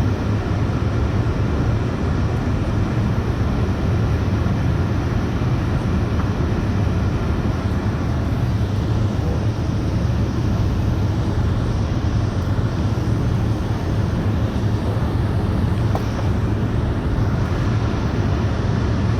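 Steady low engine drone heard from inside a moving vehicle's cabin, even and unchanging throughout.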